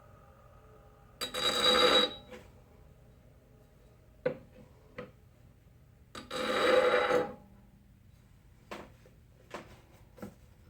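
A lathe gouge's bevel touched twice against a spinning bench-grinder wheel, each contact a grinding hiss lasting about a second, to test the jig setting against the Sharpie-coloured bevel. Between and after, a few light knocks of the steel tool being set in the jig.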